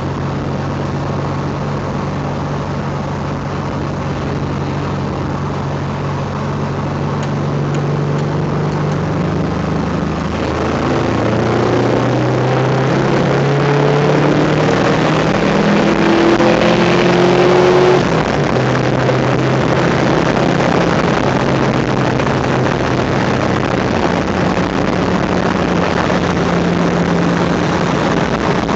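Car engine heard from inside the cabin while accelerating: its note climbs for several seconds, drops suddenly about two-thirds of the way through, then holds steady.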